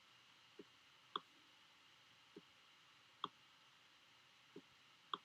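Computer mouse button clicks over near silence: six short clicks in three pairs, each a faint click followed about half a second later by a louder one.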